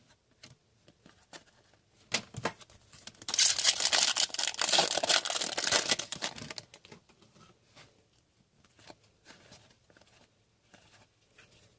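Foil wrapper of a hockey card pack being torn open and crinkled, in a noisy burst of about three seconds in the middle, with light clicks and ticks of card handling before and after.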